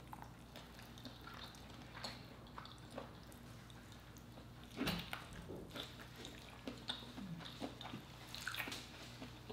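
Faint, wet mouth sounds of chewing lobster tail meat: scattered soft clicks and smacks, one louder click about five seconds in, over a low steady hum.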